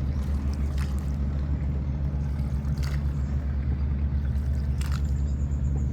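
Tour boat's engine running steadily, a low even drone, with a few short hissing swishes about two seconds apart.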